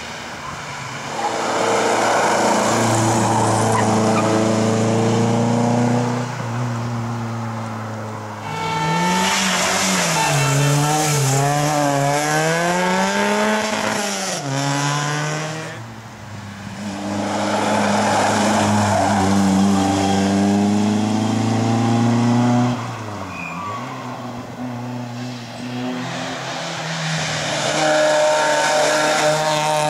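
Historic rally cars going past one after another at full throttle, about four in turn. Their engines run at high revs, rising and falling in pitch through gear changes and throttle blips.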